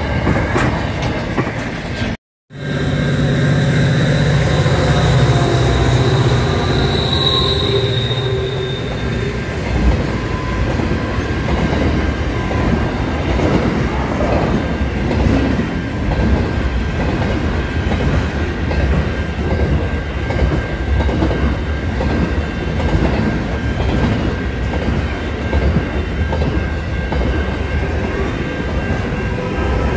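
Trains passing close by: a container freight train's wagons rumbling and clattering over the rails, with a high wheel squeal for a few seconds after a brief cut-out near the start. A diesel passenger railcar rolls past near the end.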